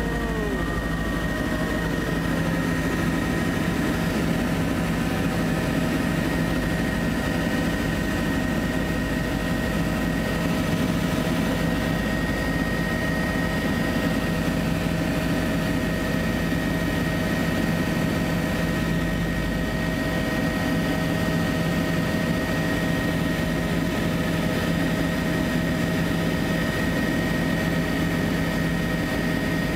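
Helicopter running steadily: an even low rotor and engine drone with a steady high turbine whine over it.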